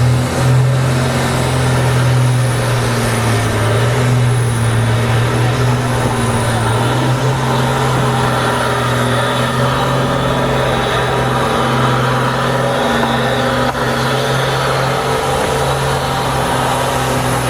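ERF race truck's diesel engine held at high, steady revs during a burnout, with the hiss of its spinning rear tyres. The engine note hardly changes throughout.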